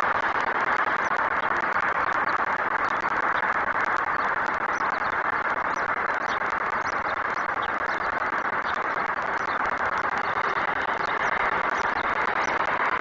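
Steady urban background noise of distant city traffic, with faint, short, high chirps scattered throughout.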